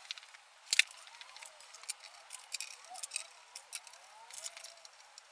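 Fast-forwarded workshop sounds of hand tools working on an engine: a scatter of quick clicks and clacks with brief chirping squeaks, all thin and high-pitched with no low end. The loudest clack comes a little under a second in.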